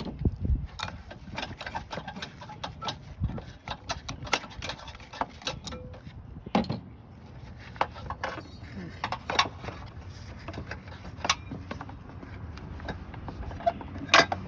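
Irregular metallic clicks and knocks from hand work on a car battery's hold-down hardware as its screws and hooked rods are undone, with one louder knock near the end.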